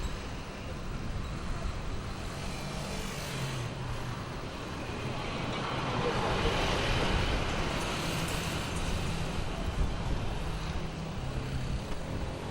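Steady motor-vehicle noise with a low engine hum.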